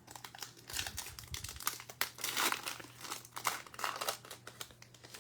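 Plastic trading-card pack wrapper crinkling as it is handled, a dense run of crackles that dies down near the end.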